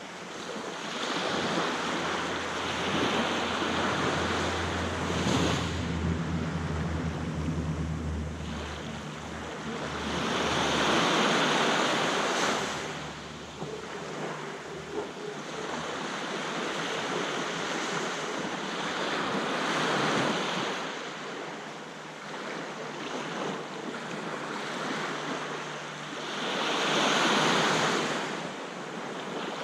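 Aegean sea waves breaking and washing on a beach, rising and falling in surges about eight seconds apart, four in all. Wind rumbles on the microphone in the first few seconds.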